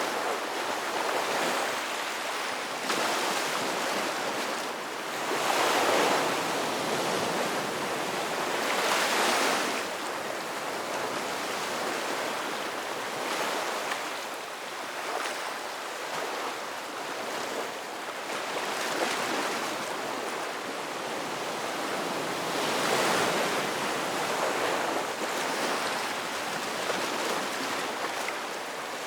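Ocean waves breaking and washing on the shore, a continuous surf with louder swells every few seconds.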